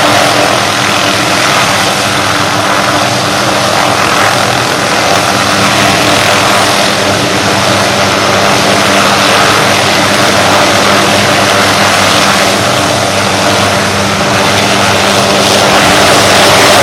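Helicopter running during start-up: a steady low hum under a loud rushing noise from engine and rotor, growing a little louder near the end.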